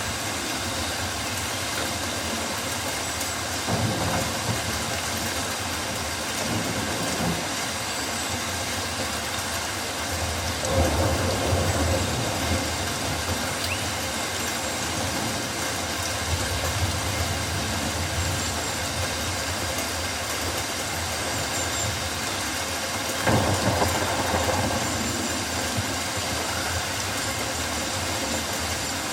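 Steady rainforest rain, an even hiss. Now and then a low rumble swells up for a second or two and fades, about four times.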